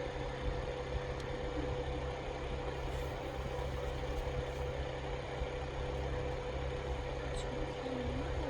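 A steady mechanical hum with one constant tone and a low rumble under it, unchanging throughout.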